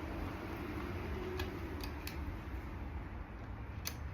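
A few light, sharp clicks of small metal engine parts being handled in a Yamaha Zuma 125's cylinder head during camshaft removal, over a steady low hum.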